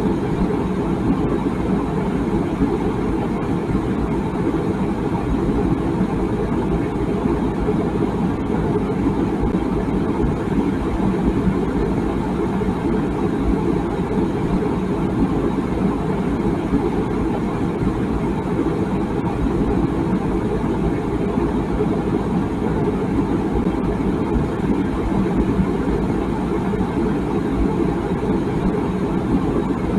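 Water boiling in a tea kettle: a steady low rumble with no whistle.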